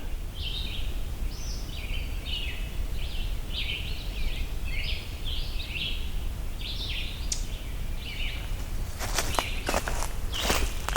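Red-eyed vireo singing, a steady run of short, slurred, whistled phrases, each answered quickly by the next. About nine seconds in, footsteps crunch through the vegetation.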